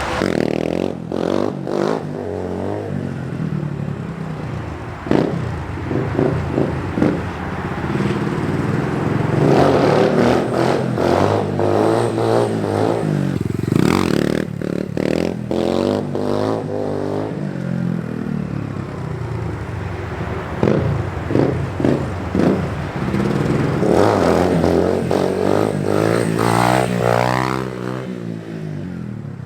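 Small dirt bike engine revving up and easing off again and again as it is ridden through second-gear wheelies, the pitch climbing and dropping several times, with rattly clattering noises throughout.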